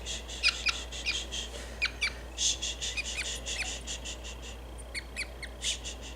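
Budgerigar chick squawking in protest at being handled: runs of short, rising, squeaky cries, thinning out over the last couple of seconds.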